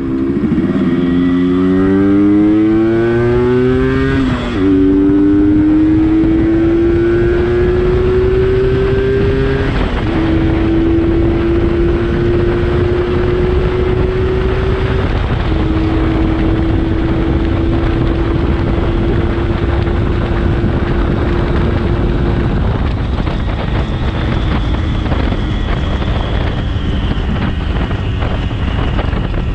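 Yamaha RX135 single-cylinder two-stroke motorcycle being ridden and accelerated through the gears. The engine note climbs in pitch and drops at upshifts about four and a half, ten and fifteen and a half seconds in, then holds a nearly steady cruising note.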